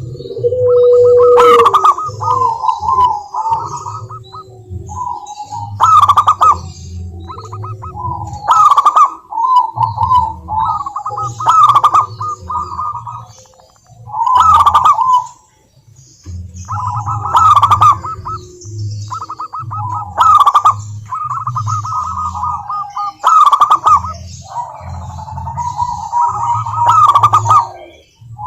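Zebra doves singing: phrases of quick staccato cooing notes, repeated every two to three seconds.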